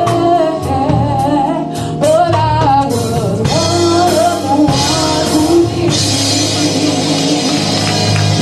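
Live gospel band with a woman singing bending, held notes over it; from about three seconds in the drums and cymbals swell, the cymbals brightest in the last couple of seconds.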